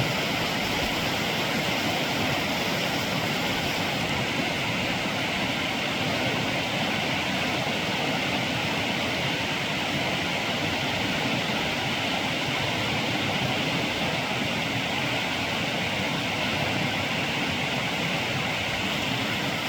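Steady rush of flowing stream water, even and unbroken throughout.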